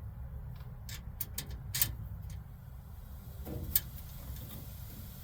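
Sharp clicks and taps of small metal hardware being fitted and tightened in a car door: a quick run of clicks about a second in and one louder click near the end, over a steady low hum.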